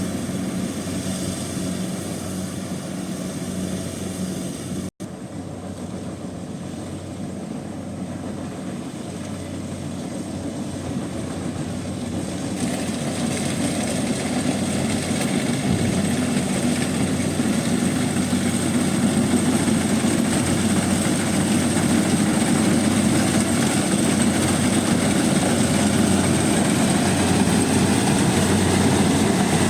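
Combine harvester running steadily with a continuous engine hum, working a rice field. The sound drops out briefly about five seconds in, then grows steadily louder through the second half.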